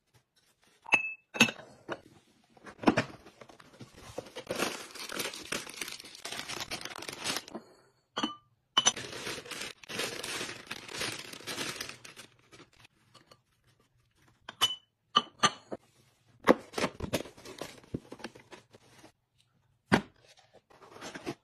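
Packaging being torn open and crinkled in two long stretches, with sharp clicks and light knocks of items being handled in between.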